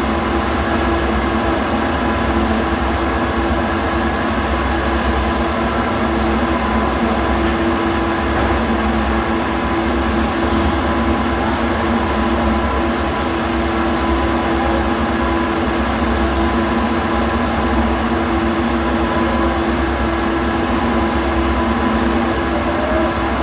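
Steady machine hum with a constant low drone and even noise, unchanging throughout.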